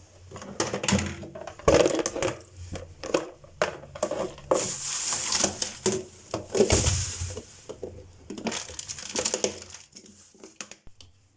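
Close kitchen handling noise: rustling and crinkling with many light knocks and clatters, from leafy greens being handled and packed for storage. The rustling is loudest a little before the middle and again just after it, then dies away near the end.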